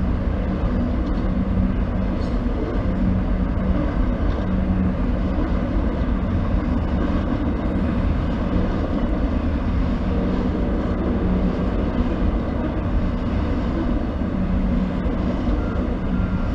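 Amtrak Auto Train's auto-carrier cars rolling steadily past over a grade crossing: a continuous rumble of steel wheels on the rails.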